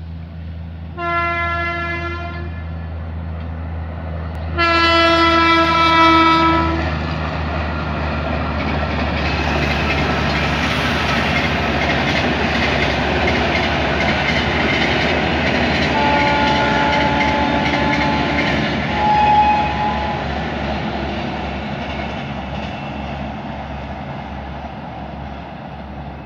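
Horn of the WAP-5 electric locomotive hauling an Indian Railways AC double-decker express, blown twice, the second blast longer. Then the train passes with a steady rumble and clatter of wheels on the rails that swells and slowly fades.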